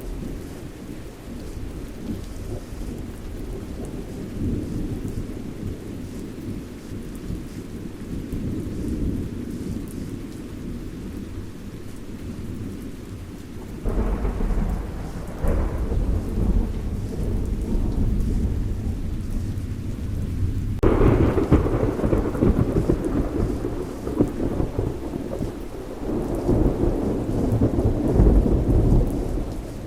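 Steady rain with rolling thunder. A thunderclap breaks in about halfway through and rumbles on, and a louder one about two-thirds through rolls on for several seconds before fading.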